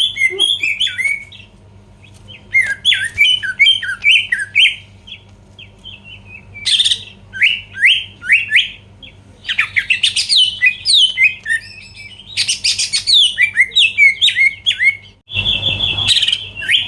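Cucak ijo (green leafbird) singing in bursts of quick, down-slurred whistled notes, each phrase lasting a second or two with short pauses between, and a harsher, buzzier phrase near the end. A faint steady hum runs underneath.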